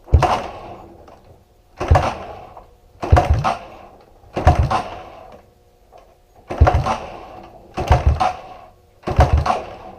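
Honda CRF125F dirt bike being kicked over about eight times in a row, one kick a little more than every second, each a sharp clunk that fades away without the engine catching. The rider puts the failure to start down to the choke being left on.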